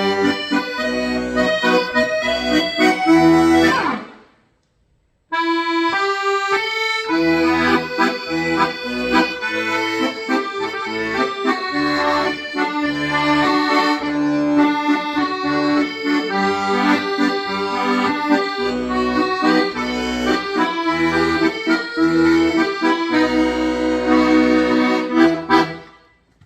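Accordion playing a melody over low bass notes. It breaks off for about a second a little after four seconds in, resumes, and dies away just before the end.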